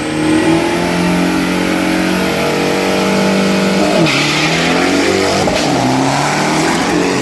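Turbodiesel pickup engine of a 2,500 cc street drag truck running hard at high revs. About four seconds in, the pitch drops with a burst of hiss and then climbs again, as at a gear change under full throttle.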